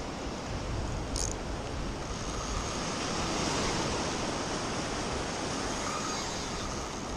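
Ocean surf washing onto a beach: a steady rush that swells about halfway through.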